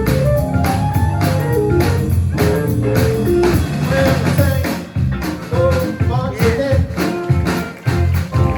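Live band playing a blues-style number: melodic guitar lines over bass and a steady drum beat.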